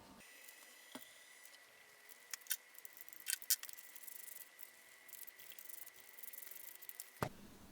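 Scattered light clicks and clinks of gearbox parts and tools being handled during assembly, a few sharper ones between about two and a half and three and a half seconds in, over a faint steady high whine.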